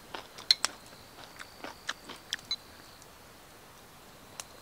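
A person chewing a mouthful of food close to the microphone: a run of sharp crunching clicks over the first two and a half seconds, and one more near the end.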